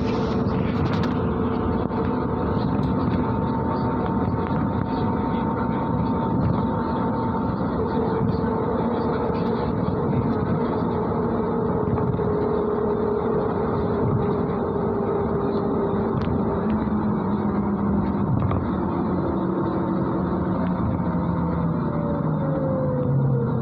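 MAZ-103 city bus driving, heard from inside the cabin: steady engine and road rumble with a whine over it, which falls in pitch near the end.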